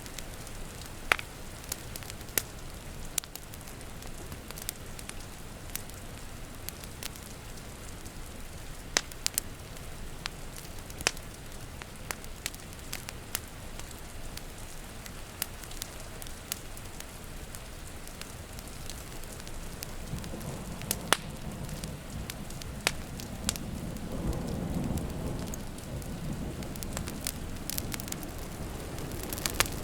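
Wood fire crackling with frequent sharp pops over the steady hiss of rain. A low roll of thunder swells in about two-thirds of the way through and fades again.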